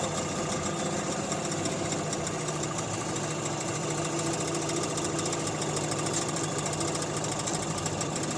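3 hp Evinrude two-stroke outboard motor running steadily at a constant speed, with an even firing rhythm.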